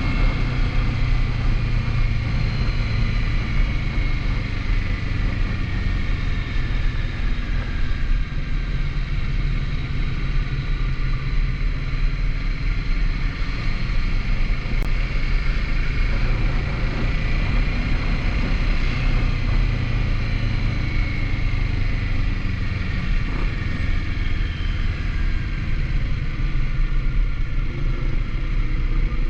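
Kawasaki Z650 parallel-twin motorcycle engine running steadily on the road, its pitch slowly falling and rising as the speed changes.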